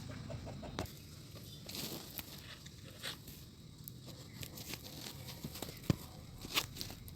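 Scattered light clicks and plastic crackles from hands working an engine wiring harness, taping wires and fitting sleeve over them.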